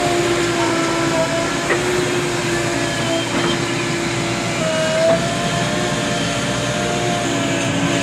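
Diesel engine of a JCB 3DX backhoe loader running steadily at a constant pitch, with a couple of faint knocks about two and three and a half seconds in.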